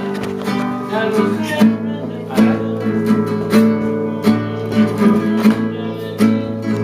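Acoustic guitar strummed, chords played in a steady rhythm with a strong stroke roughly every half to one second.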